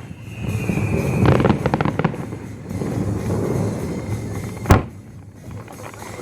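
Fireworks display: a slightly falling whistle, then a quick run of cracks and bangs about a second in, and one loud sharp bang near the end, over a steady low rumble.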